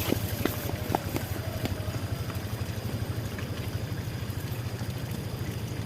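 A small engine running steadily, a low throb pulsing several times a second.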